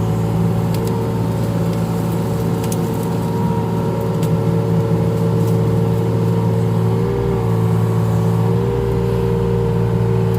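Mini excavator's diesel engine running steadily at high revs, with a faint hydraulic whine over it.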